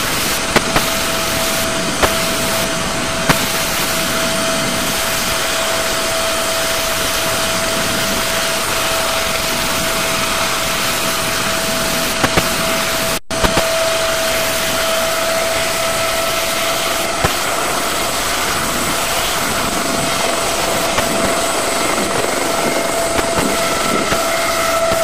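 Aerospatiale AS365N1 Dauphin helicopter's twin turbines running with a steady high whine over a constant rush of noise. The old recording drops out for an instant about halfway through and has a few small clicks.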